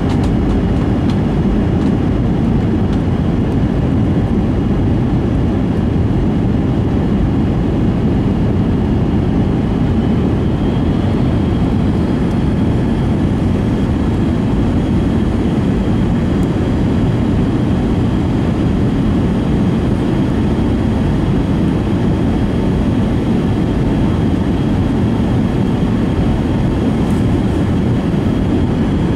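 Steady airliner cabin noise inside an Airbus A320 descending on approach: a constant low rush of airflow with its IAE V2500 engines running.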